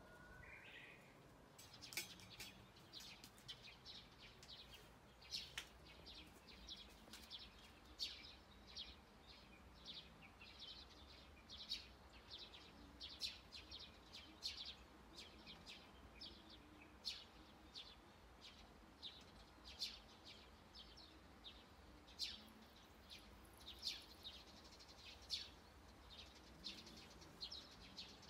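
Faint, high, short chirps of small birds, repeating irregularly about once or twice a second, over a quiet outdoor hiss.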